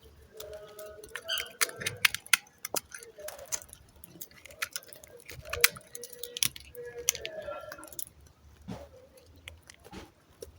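Knife cutting into a bar of dry soap: a run of crisp, irregular crackling clicks.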